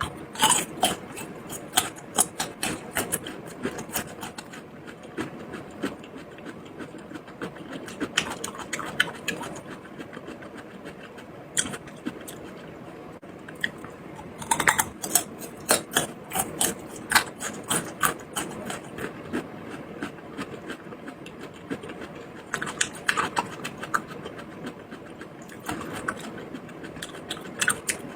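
Close-miked eating with no talking: chewing and biting, with crisp clicking crunches that come in several bursts over a steady background.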